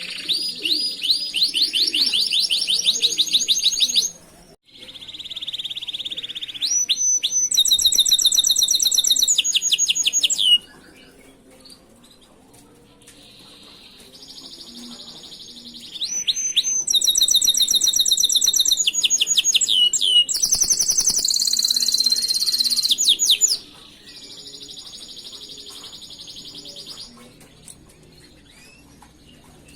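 Domestic canary singing: long rolls of rapidly repeated high notes. The loudest rolls come in the first four seconds, again from about seven to ten seconds in, and from about sixteen to twenty-three seconds in, with softer song between.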